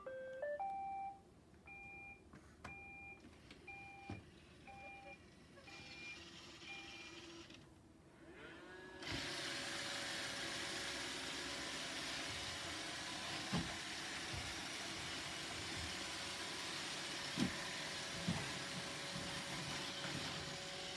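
Roomba robot vacuum starting up: a quick rising run of tones, then a string of short evenly spaced beeps for several seconds. About nine seconds in its vacuum motor and brushes start and run steadily, with a few knocks as it bumps into things.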